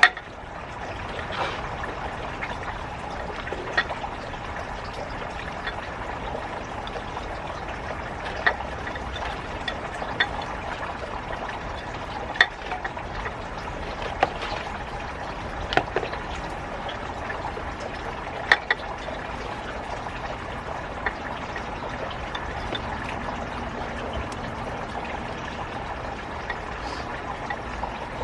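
Water running steadily, with a few sharp clicks or taps here and there.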